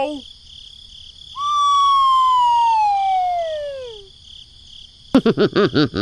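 A cartoon falling-whistle sound effect: one long descending whistle that glides steadily down in pitch for about two and a half seconds. Near the end comes a quick run of short, high, chattering cartoon-voice syllables.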